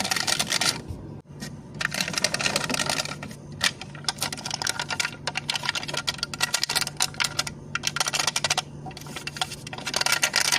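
Rapid fingertip tapping and clicking on a plastic cup lid, coming in dense bursts with short pauses between them.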